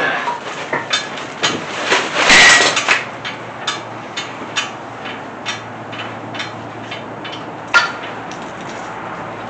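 Hand-tool work on a small-block Chevy 350 engine mount: scattered metal clinks and knocks, with one louder grating scrape lasting under a second about two seconds in.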